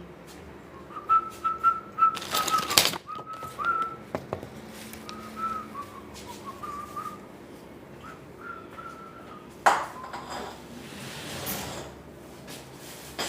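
A person whistling a simple tune in short phrases, broken twice by a loud hiss, with a few light clicks and knocks.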